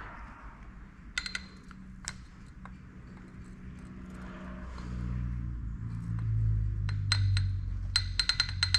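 Hydraulic roller lifters clinking, metal on metal, as they are handled and set into the engine block's lifter bores. There are a few sharp ringing clinks near the start and a quick run of them near the end, over a low steady hum that grows louder from about halfway.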